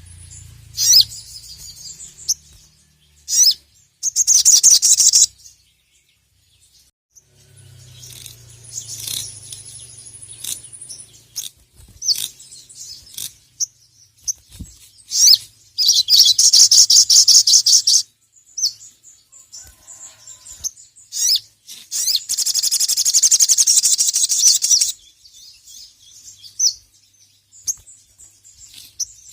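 A sogon (sogok ontong, little spiderhunter) singing in bursts of rapid, high, chattering trills, several seconds long, the longest and loudest in the middle and near the end, broken by a short pause early on.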